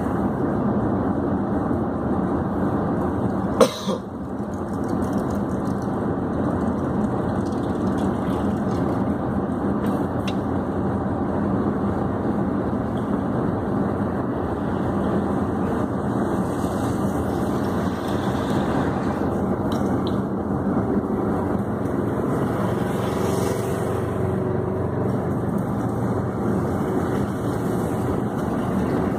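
Steady engine and road noise heard from inside a vehicle's cab as it idles and creeps forward in a queue. There is one sharp knock a few seconds in.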